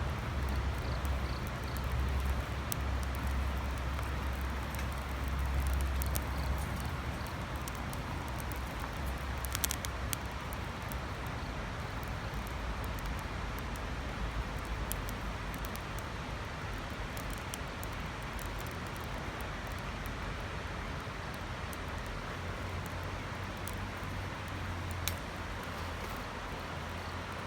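Twigs burning in a small secondary-combustion wood stove: a steady low rush of flame, stronger in the first few seconds, with scattered sharp crackles and pops.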